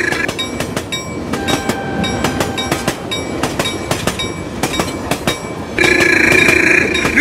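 Freight train running along the track, its wheels clicking over the rail joints in a clickety-clack. A horn is held as a steady chord at the start, cuts off just after it, and sounds again about six seconds in.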